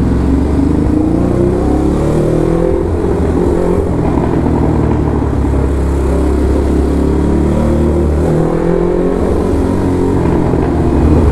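Ducati Hypermotard SP's L-twin engine through an SC Project exhaust, revving while the bike is ridden. The engine pitch climbs over the first couple of seconds, eases back down, then rises and falls again.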